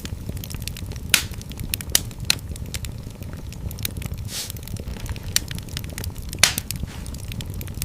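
Wood fire crackling in a fireplace: a steady low rumble under a constant scatter of sharp pops, a few of them louder.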